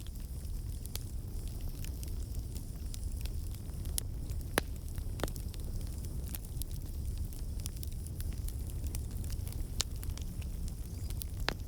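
Campfire burning: a steady low rumble of flames with scattered sharp crackles and pops from the burning wood, a few louder pops among them.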